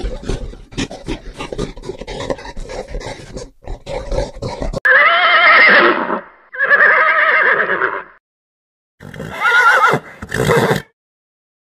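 A run of rapid, irregular knocks for about five seconds, then a horse neighing: two long whinnies with a wavering, quavering pitch, followed after a pause by two shorter ones.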